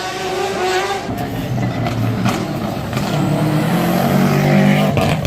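Rally car engines accelerating: one engine note rises and fades about a second in, then a second, lower engine note climbs in pitch from about halfway, with a sharp crack near the end.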